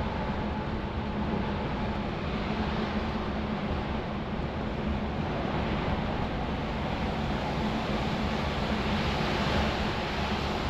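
Steady drone of a DAF semi truck on the road: a low engine hum under even tyre and wind noise.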